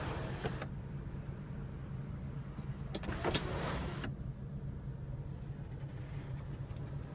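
Electric motor of a 2015 Audi A3's panoramic sunroof running with a steady low hum. There are short rushes of noise and clicks near the start and again about three seconds in.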